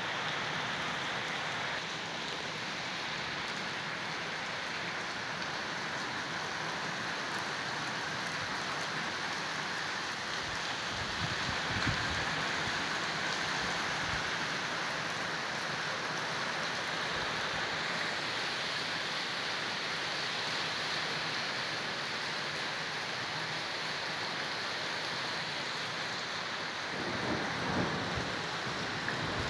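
Heavy rain falling steadily onto a water-covered concrete yard, an even hiss throughout. Two brief low rumbles rise over it, about twelve seconds in and again near the end.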